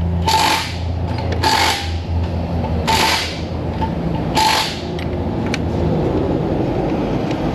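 A power ratchet running bolts down in four short bursts, each about half a second long and about a second and a half apart. Light clicks of hand work follow in the last couple of seconds, over a steady shop hum.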